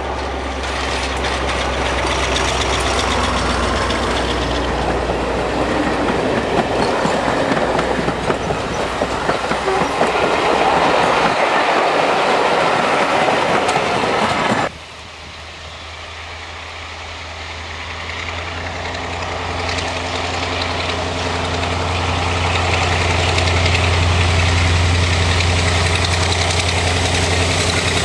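A heritage diesel locomotive working a train past on the rails, the noise building up. About halfway through it cuts off abruptly to a diesel locomotive engine running with a steady low drone that slowly grows louder.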